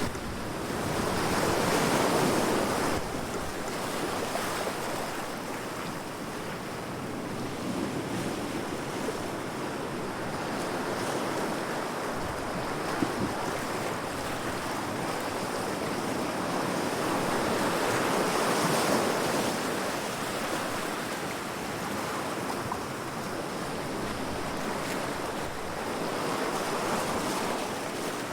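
Ocean waves breaking against rocks, a continuous wash of surf that swells louder three times, about two seconds in, near the middle and near the end. One brief sharp click is heard a little under halfway through.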